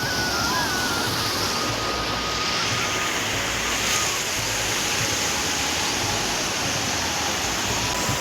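Steady rushing of flowing floodwater, an even noise that does not let up.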